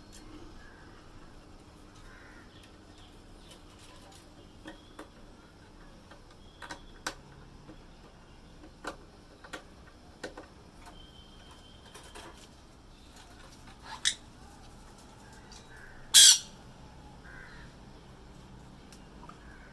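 Birds giving short, scattered squawks and calls, the loudest a single sharp squawk about three-quarters of the way through.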